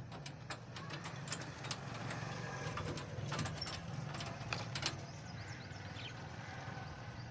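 A steady low hum like a running motor or traffic, with scattered sharp clicks and taps that are busiest in the first five seconds.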